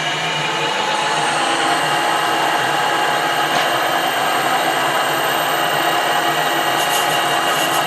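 Metal lathe running, its motor and gearing giving a steady whine of several tones over a mechanical hum. It builds up over about the first second, then holds steady.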